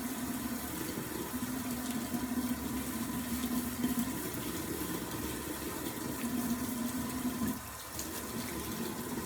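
Tap water running steadily, as during rinsing or washing hair at a sink. The flow briefly dips about three-quarters of the way through.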